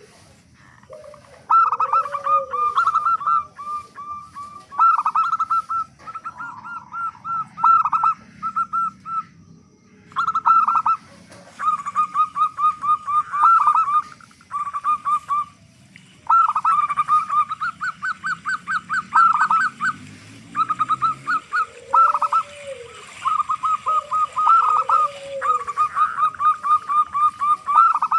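Zebra dove (perkutut) singing its cooing song: bursts of quick, evenly repeated coo notes, a few seconds each with short pauses between, and now and then a lower drawn-out coo.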